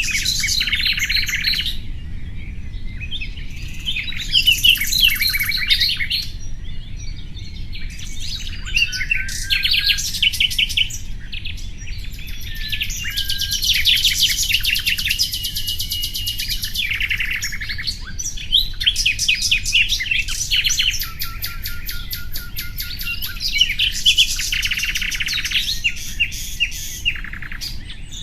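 Common nightingale singing: a run of separate phrases of fast repeated notes, rapid trills and short whistles, with short pauses between them, over a steady low background rumble.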